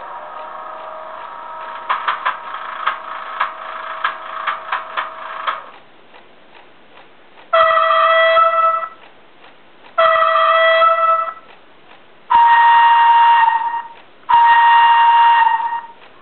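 Sound decoder of a model E.656 electric locomotive playing its two-tone horn: two short blasts on the lower note, then two longer blasts on the higher note. Before the horn there is a few seconds of steady tone mixed with an uneven run of clicks.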